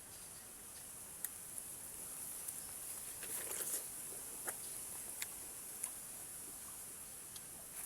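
Steady high-pitched chirring of insects, with scattered sharp clicks and a brief crackle about three and a half seconds in.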